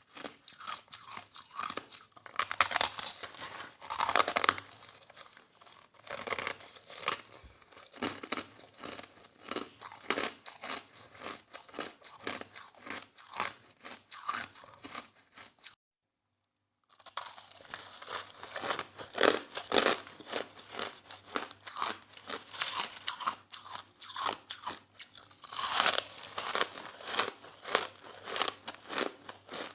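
Soft crushed ice being bitten and chewed close to the microphone: a dense, irregular run of crunches with louder bursts at each fresh bite. The sound cuts out completely for about a second halfway through, then the crunching resumes.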